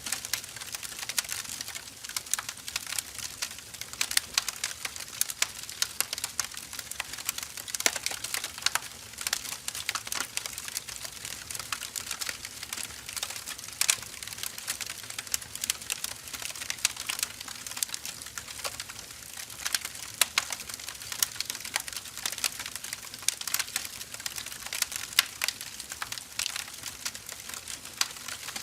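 Firewood burning, with dense irregular crackles and pops over a steady hiss.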